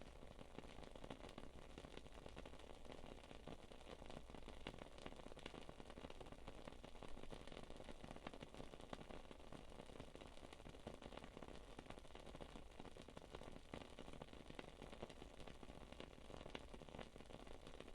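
Faint, steady crackling of a wood-wick candle burning: many tiny pops and ticks, like a small campfire.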